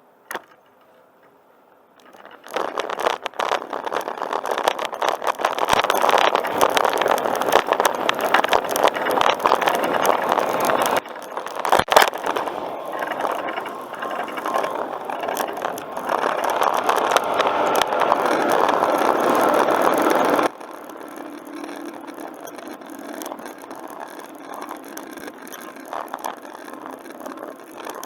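A bicycle rolling over a rough path, with dense rattling from the bike. It starts loud about two and a half seconds in, has one sharp knock around the middle, and turns quieter and smoother in the last third.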